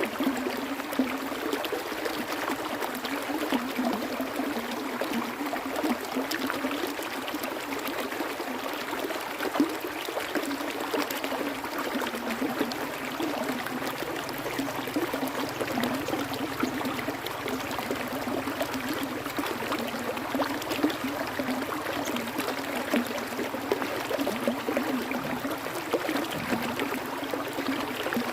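Stream of water running steadily over rocks, with a busy splashing and trickling texture.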